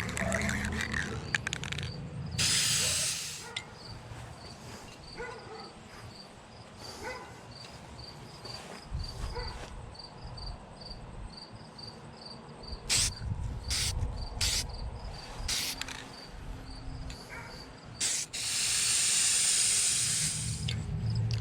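Aerosol spray can of clear lacquer hissing in bursts: a second-long spray a couple of seconds in, several quick short bursts past the middle, and a longer spray of about two seconds near the end.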